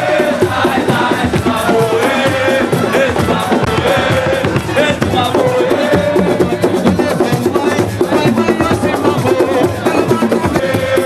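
Dense, fast drumming with voices singing over it and a crowd joining in.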